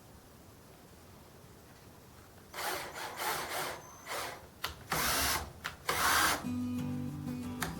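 A power tool working wood in short, irregular bursts that start about two and a half seconds in. Background music with low notes comes in near the end.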